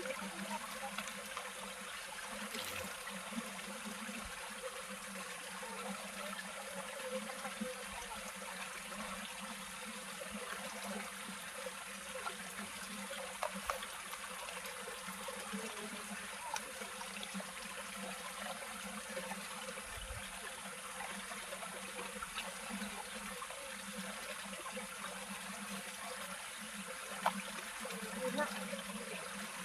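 Water trickling and flowing steadily, as of a small stream, with a few faint ticks over it.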